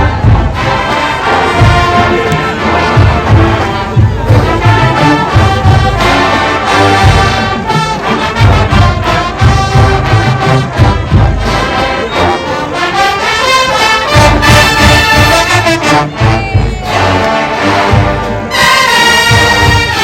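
Marching band playing: brass section of trumpets and trombones over a steady pounding bass-drum beat. A bright, high brass chord comes in near the end.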